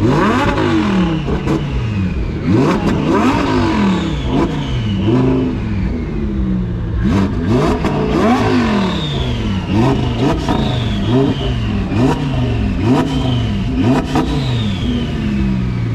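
Car engine revved hard again and again, its pitch climbing and dropping about once a second, with sharp cracks between some of the revs.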